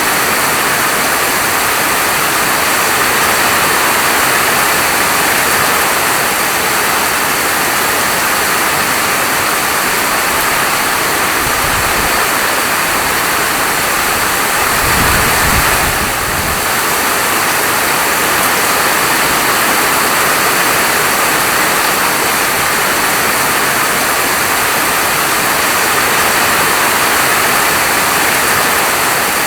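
Heavy, steady falling rain as a dense, even hiss. A brief low rumble comes twice, about twelve and fifteen seconds in.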